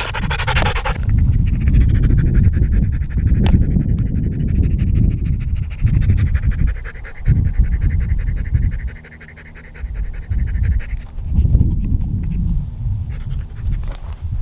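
Dog panting hard and fast close to the microphone, winded after a steep uphill hike. The panting eases briefly about nine seconds in, then resumes.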